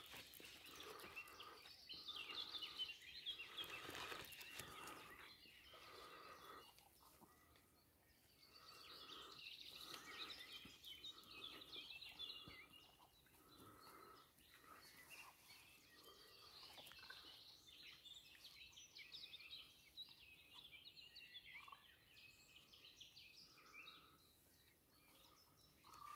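Faint bird calling: many short high chirps coming in waves with brief lulls, over short lower notes repeated about once a second.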